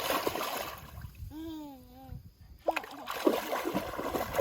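Water splashing in shallow river water, in two stretches, with a short wavering voice in the pause between them.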